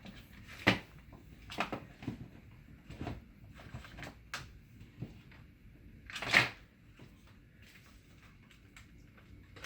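Scattered knocks and clunks of computer hardware and cords being handled and moved, with two louder knocks, one just under a second in and one about six seconds in.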